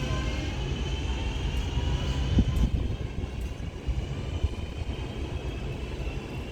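Electric passenger train running through a station: a low rumble under a motor whine that falls slowly in pitch, with a few light knocks about halfway through.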